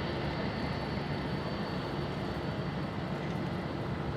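Jet airliner engines running at taxi power: a steady rumble with a faint high whine, easing off slightly.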